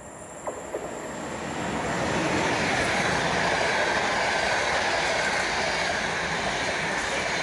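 Electric-hauled passenger train passing at speed: a rushing rumble of wheels on rails that swells over the first two seconds and then holds steady as the coaches go by.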